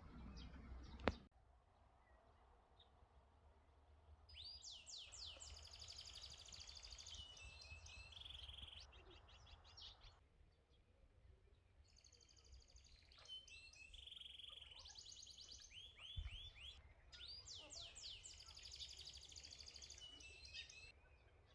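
Faint songbird singing in three bouts of fast repeated phrases, quick rising sweeps and trills. A single sharp click sounds about a second in.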